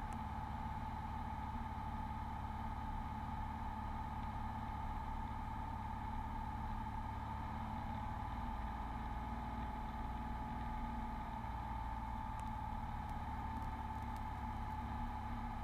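Beechcraft Bonanza V35's piston engine and propeller droning steadily during the landing approach, with a steady high whine above the low drone.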